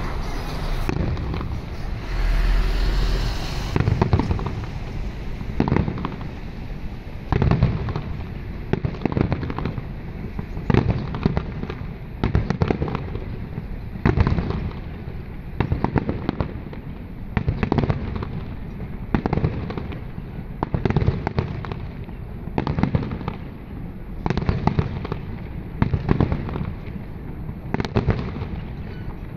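Aerial firework shells bursting in a steady series, a bang about every second, each trailing off briefly.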